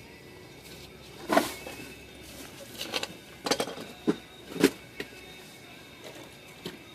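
About half a dozen sharp knocks and clatters over a few seconds, the loudest about a second in and again near the middle.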